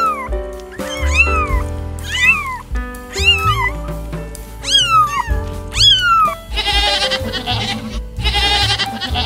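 Kittens meowing, about six short calls that rise and fall in pitch, over background music. About six and a half seconds in, this gives way to a goat bleating: two long, wavering calls.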